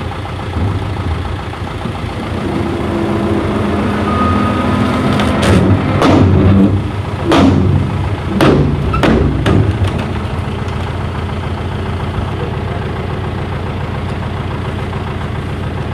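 An engine idling steadily, with a cluster of about six sharp thumps over some four seconds in the middle.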